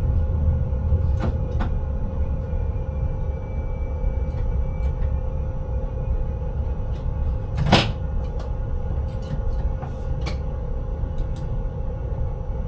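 Train running, heard from inside the driver's cab: a steady low rumble with a constant hum, scattered light clicks and rattles, and one louder knock near the middle.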